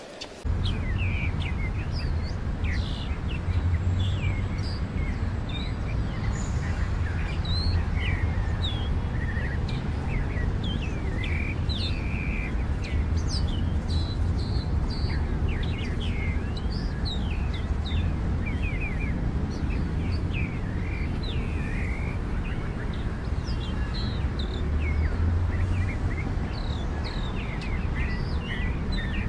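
Many small birds chirping, short high calls in quick succession, over a steady low rumble that starts abruptly about half a second in.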